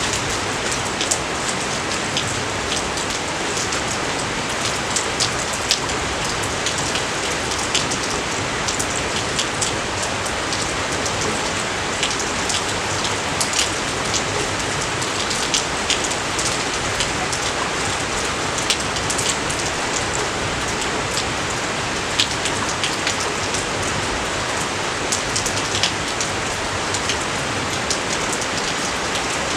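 Steady rain falling, a dense even hiss with frequent close sharp drop impacts.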